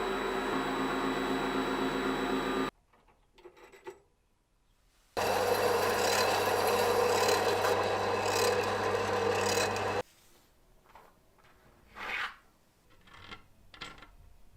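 A motorised tool running with a rasping, rubbing noise in two stretches of a few seconds each, both cutting off suddenly; between and after them, faint clicks and knocks of parts being handled.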